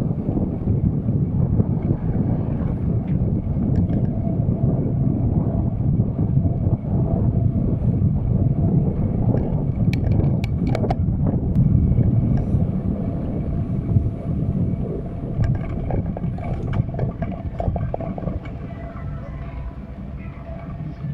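Steady low rumble of wind on the microphone and road noise during a bicycle ride, with a few sharp clicks about ten seconds in.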